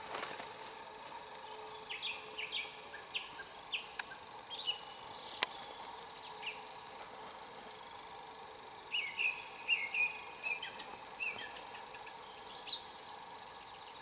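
A small songbird singing in several short bursts of quick, high chirping notes separated by pauses. Two sharp clicks sound a little before the middle.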